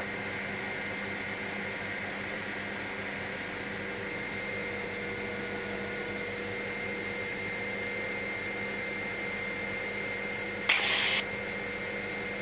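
Steady drone of a helicopter in flight, heard from inside the cabin, holding a few constant tones. A short burst of hiss cuts in about eleven seconds in.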